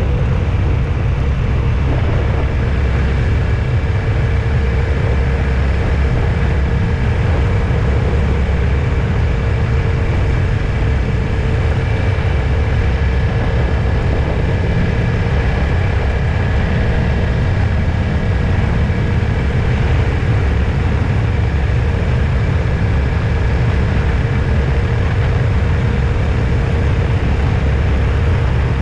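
A road vehicle driving at steady speed: a constant low rumble of engine and tyres, with a faint steady whine above it.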